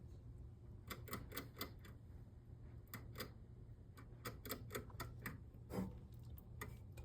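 Irregular light clicks and taps, sometimes several a second, over a faint low hum.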